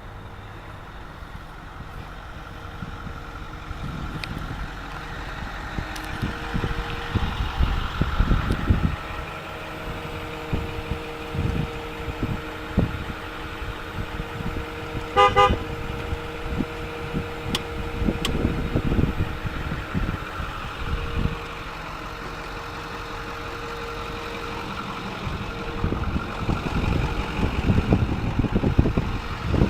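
Ford F-550 Super Duty crane truck running, with a steady whine that stops and starts and uneven low rumbling throughout. A short, pulsed beep sounds about halfway through.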